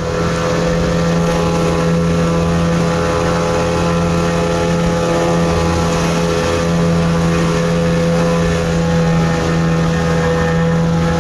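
Motor boat engine running steadily at cruising speed, heard from on board, an even drone with a constant pitch.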